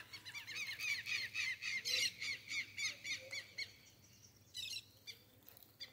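A bird calling: a fast, even run of short, high, arched notes, about five a second for some three and a half seconds, then a few short calls near the end.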